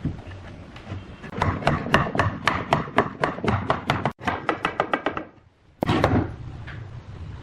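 Rapid, even series of hammer taps on wood, about five to eight a second, quickening near the middle, then a short pause and one louder knock.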